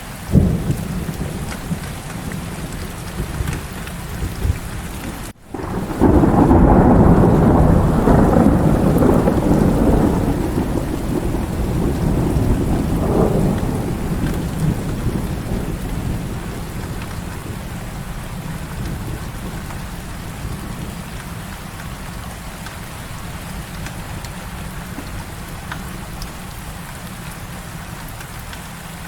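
Heavy rain falling steadily, with a sharp crack of thunder just after the start. About five seconds in the sound cuts out for a moment, then a long, loud roll of thunder swells and slowly fades over about ten seconds.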